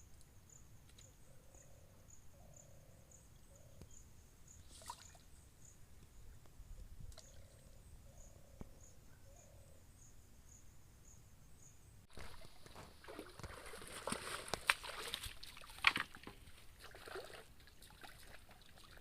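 An insect chirping in a steady high-pitched pulse, about two chirps a second. About twelve seconds in the sound changes abruptly to louder water splashing and sloshing with sharp clicks and knocks.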